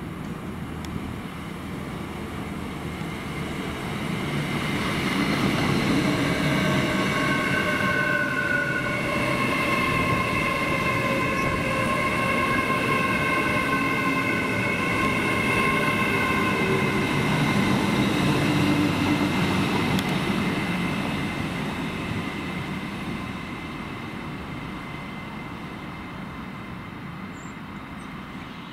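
A train passing through a station, coming closer and growing louder over the first few seconds, loudest through the middle, then fading away. Steady high-pitched whining tones sit over the rumble of the wheels while it passes.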